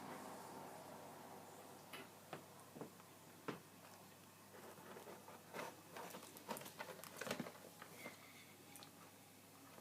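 Pet rats moving about, making faint, irregular small clicks and taps that cluster between about two and eight seconds in.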